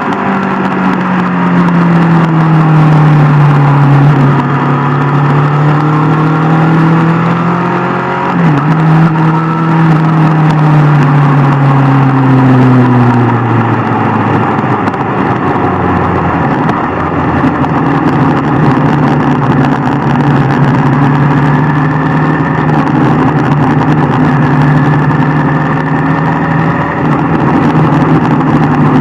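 Sport motorcycle engine running under way. Its note slides down, jumps briefly about eight seconds in, sinks again, then holds steady, over constant wind and road rush.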